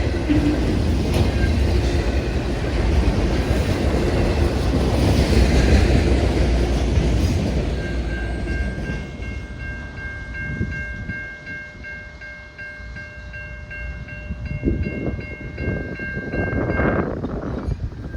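CN freight train passing close by, its cars' wheels rumbling and clattering on the rails, dying away after about eight seconds. As it fades, a steady high ringing with a regular beat of about two a second is left.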